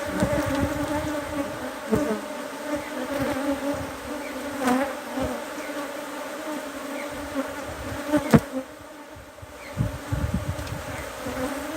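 Honeybees of an opened hive buzzing steadily around the frames, a dense hum with a rise and fall in pitch near five seconds; a sharp knock a little after eight seconds.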